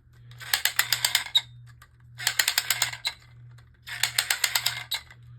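Ratcheting clicks from a Beyblade Burst Shark Launcher's mechanism as it is worked to set it, in three runs of rapid clicks, each about a second long.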